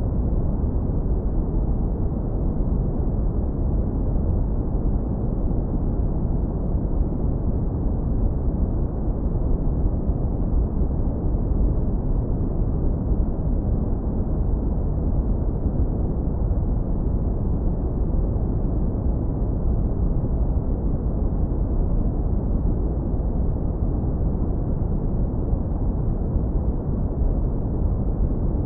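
Continuous deep brown noise, heavily low-pass filtered: a steady, even low rumble with no high frequencies and no changes.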